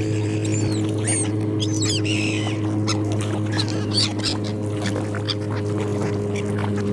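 Seagulls calling, several short sliding cries in the first two and a half seconds, over a steady low hum.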